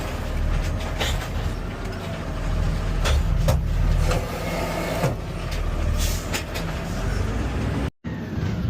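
Garbage truck engine running steadily, with several sharp knocks and clanks over it.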